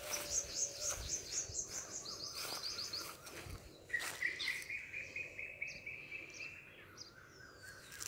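Wild birds singing in forest: a high, fast trill of repeated notes that falls a little in pitch over the first three seconds, then a lower fast trill starting about four seconds in and lasting some three seconds. A few faint clicks sound in between.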